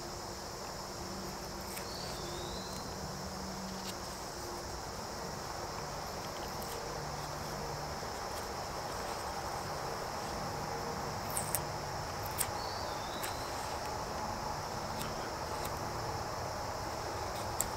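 Steady high trilling of crickets, with a few sharp clicks around the middle and one near the end.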